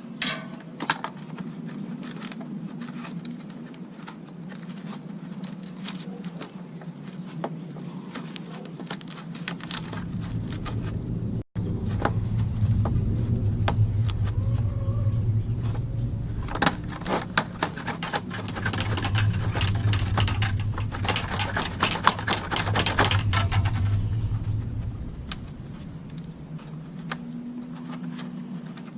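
Plastic vacuum-cleaner parts being handled during disassembly, with scattered clicks and knocks. A low buzzing hum starts about ten seconds in and stops a few seconds before the end.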